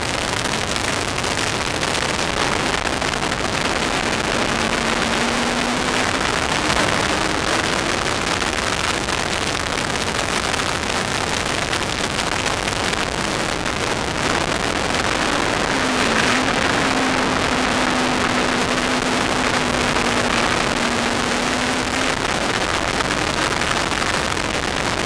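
Kawasaki ZX-10R inline-four motorcycle engine in an MK Indy R track car running hard at speed, heard from the cockpit under heavy wind and road noise. The engine note holds mostly steady, with a brief dip about two-thirds of the way through.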